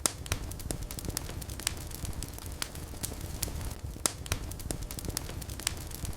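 Wood fire burning in a fireplace, crackling and popping with sharp snaps at irregular intervals over a steady low rumble of flames.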